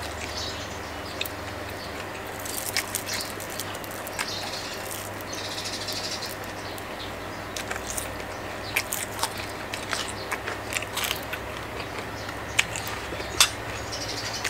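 Close-up eating sounds: chewing and crunching of crispy fried salmon and raw vegetables, with many sharp, irregular crunches and mouth clicks.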